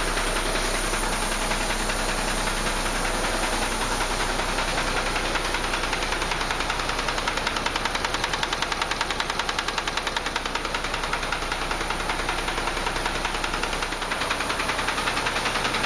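Renault Premium truck's diesel engine idling with a steady, rapid rhythmic knocking. The truck has a knock in its B18 gearbox, presumably from the input shaft.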